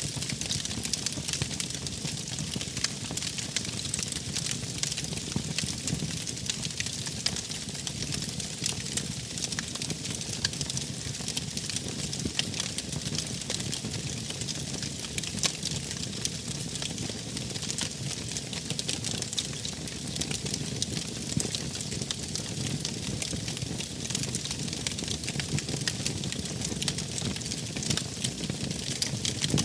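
Wood fire crackling steadily: many small sharp pops and snaps over a low rumble of flames.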